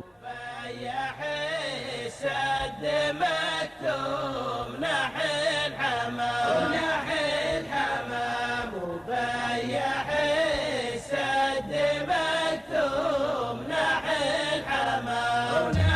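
Background music: a chanted, melodic vocal song with several sliding voice lines over a steady low drone, continuing without a break.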